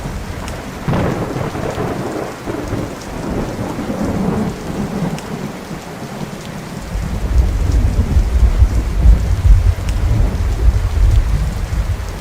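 Thunderstorm: steady rain with thunder. A crack of thunder about a second in trails off over a few seconds, and a deep, loud rumble builds from about seven seconds in.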